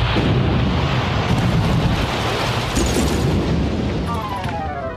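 Stone bridge collapsing: a long, loud rumbling crash of falling masonry and rubble, with a set of falling tones sliding down near the end.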